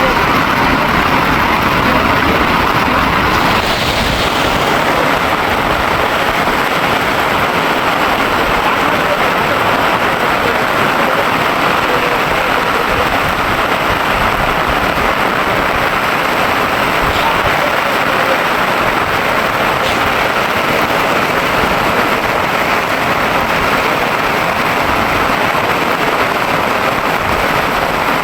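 Heavy rain falling steadily, a loud even hiss with a slight change in tone about three and a half seconds in.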